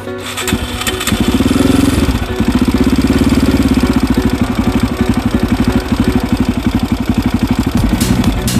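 KTM 640 Supermoto's single-cylinder engine starting about a second in, revving briefly, then idling with a steady rapid thumping.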